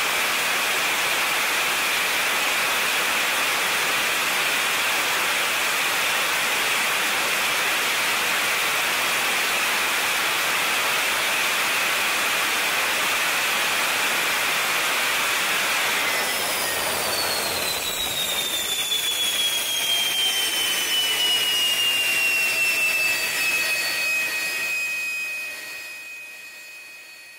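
Jet engine on a ground test run: a loud, steady rush of noise, then from about two-thirds of the way in a turbine whine that slides down in pitch and levels off as the engine throttles back, the sound fading out near the end.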